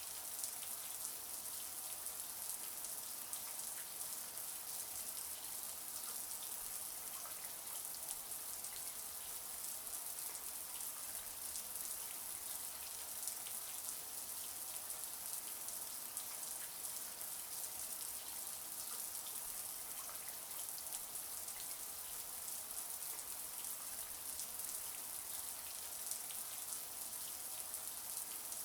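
Shower water running steadily and spattering onto a hard surface: an even high hiss with many small droplet patters.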